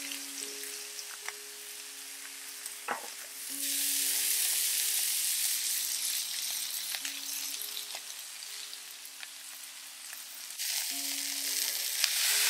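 Chicken pieces sizzling in their own fat in an iron sukiyaki pot, with a few sharp clicks of chopsticks against the pan in the first few seconds. The sizzle grows louder about a third of the way in, and surges again near the end as the sukiyaki stock is poured into the hot pot.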